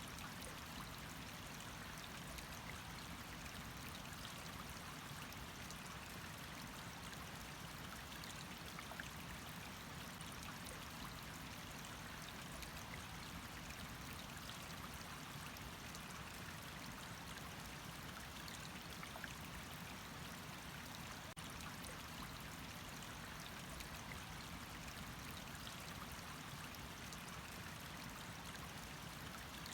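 Water running steadily, an even rushing noise with faint scattered drip-like ticks.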